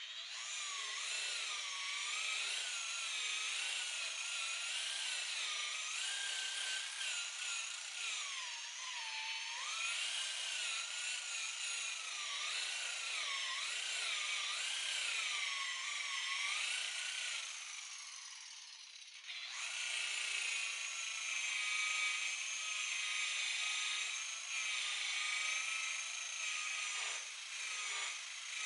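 Electric buffer running against the boat's fiberglass hull to cut out oxidation with compound. Its motor whine wavers up and down in pitch as the load on the pad changes. About eighteen seconds in it winds down, and it starts up again a second or so later at a steadier pitch.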